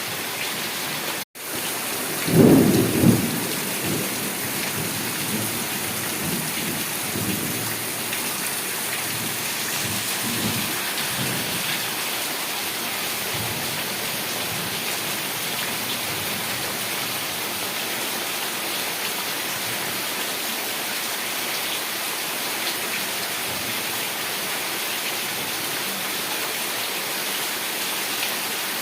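Heavy rain falling as a steady, even hiss, with a loud clap of thunder about two seconds in and fainter rolls of thunder over the next several seconds. The sound cuts out for an instant about a second in.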